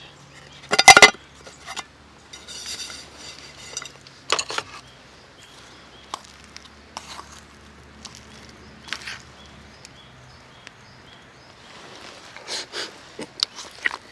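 Camping gear and metal cookware being handled: scattered knocks and clinks, the loudest a short clatter about a second in.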